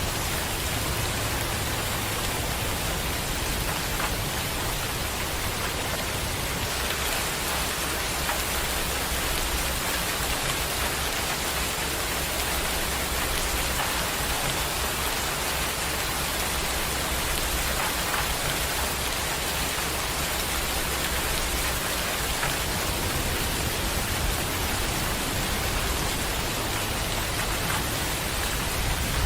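Steady rain falling, an even hiss of drops on surfaces with no break.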